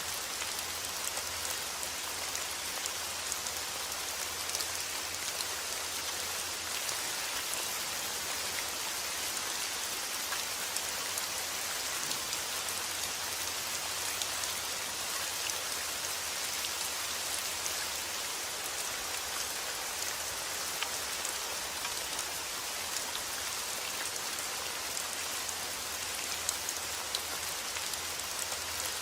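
Steady rain falling: an even hiss of many drops, with scattered sharper drop ticks.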